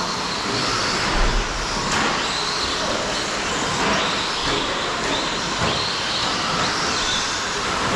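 Electric RC short course trucks with 17.5-turn brushless motors racing on the track: repeated whines rise and fall as the motors speed up and slow down, over a steady noise of tyres and running gear.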